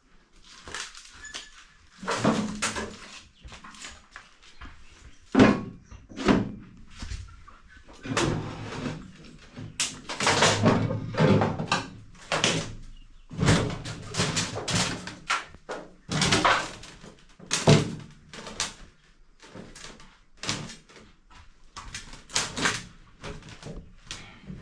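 Irregular knocks, thuds and clattering from pipes being handled and gathered, with door-like bangs, echoing as in a small room. The busiest stretch of knocking falls in the middle.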